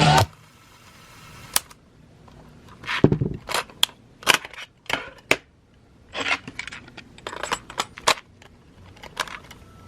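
Sony YP-EW10 cassette Walkman being operated: the music stops at the start, followed by a string of sharp clicks and clunks from its buttons and tape mechanism, scattered irregularly.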